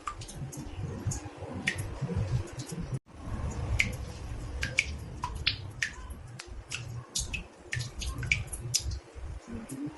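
Water drops falling into a bathtub: sharp, irregular plinks, a few every second, over a low rumble, with a brief break about three seconds in.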